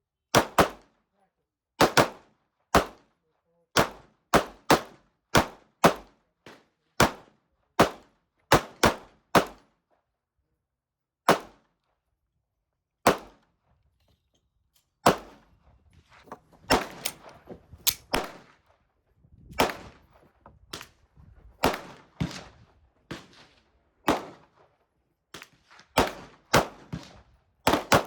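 Gunshots at a shooting range: a run of single shots about one a second, a lull with two shots, then quicker, uneven firing of mixed loudness.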